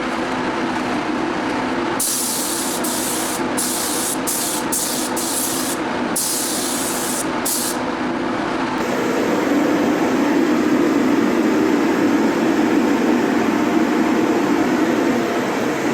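Paint spray gun hissing in a run of short bursts as the trigger is pulled and released, over a steady machine hum. The spraying stops after about eight seconds and the hum grows louder.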